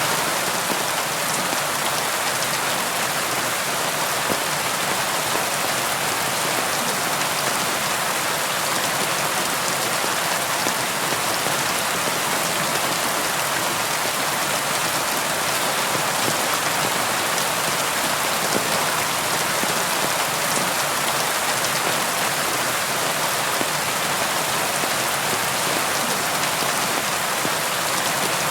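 Steady rain falling on a surface, a continuous even hiss of many small drops.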